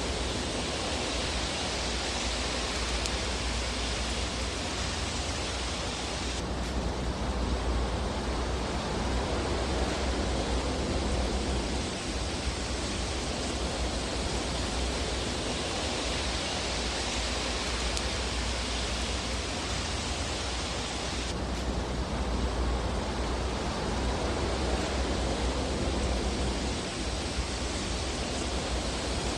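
Fireplace fire sound: a steady, dense hiss of burning with fine crackle and no loud pops. The high part of the hiss changes abruptly twice.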